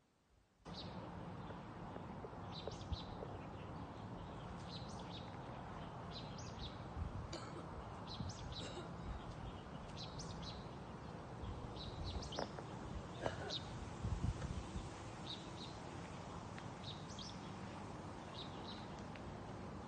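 Outdoor ambience of small birds chirping in short, scattered calls over a steady low background noise.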